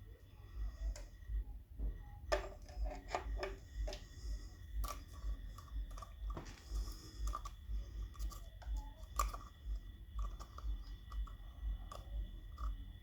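Irregular sharp clicks and light knocks of parts being handled and worked, over a low, irregular thumping rumble.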